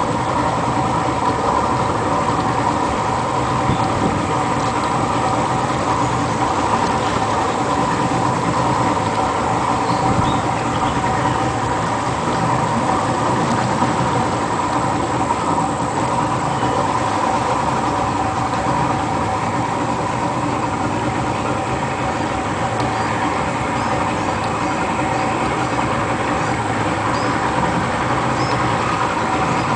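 An engine running steadily with an even hum, holding the same pitch and loudness throughout.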